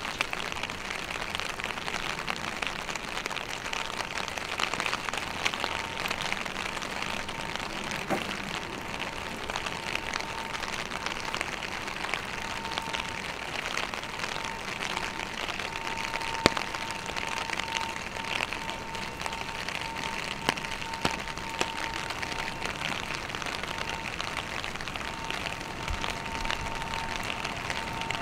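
Steady rain falling, an even hiss with occasional sharp ticks. A thin steady tone joins in after about five seconds and carries on with short breaks.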